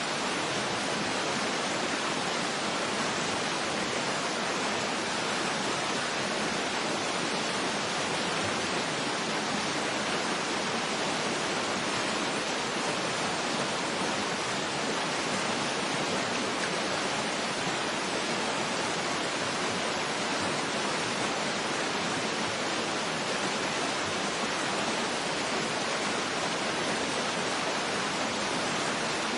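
Waterfall rushing in a steady, even hiss that never changes, with little deep rumble.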